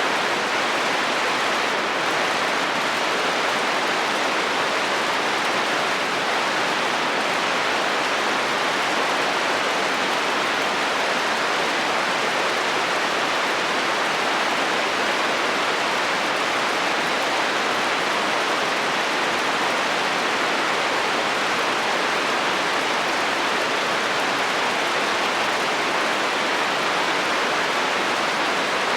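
Steady heavy rain falling on a metal roof, an even unbroken hiss and patter.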